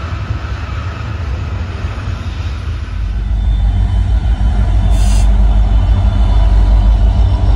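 Freight train rolling past with a continuous low rumble. About three seconds in, a diesel locomotive's engine hum grows louder.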